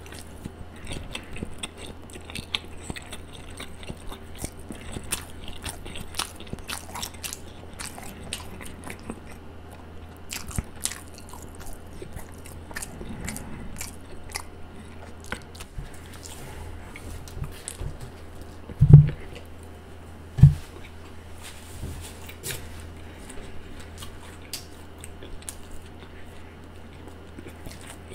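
Close-miked chewing of a Subway spicy Italian sub sandwich: a steady run of small mouth clicks and crackles as mouthfuls are bitten and chewed. About two-thirds through come two short, louder low sounds a second and a half apart.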